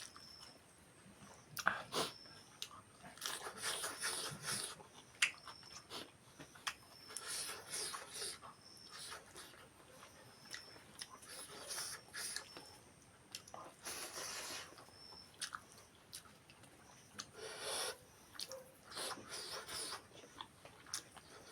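A person eating fish curry close to the microphone: chewing and biting mouth sounds in short bursts every second or two, with a few sharp clicks between them.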